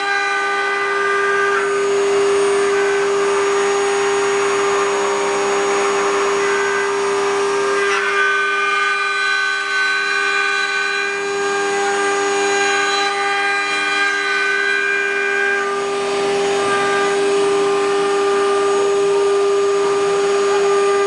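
Spindle of a 4-axis CNC wood router running with a steady whine, its higher tones shifting about 8 and 16 seconds in.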